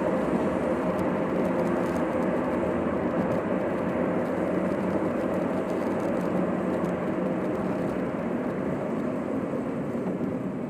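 Car on the move, heard from inside the cabin: steady engine hum and road noise, easing a little toward the end.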